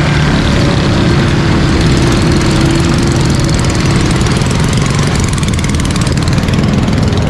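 Road traffic: vehicle engines running steadily, with a faint steady tone riding over them for the first few seconds.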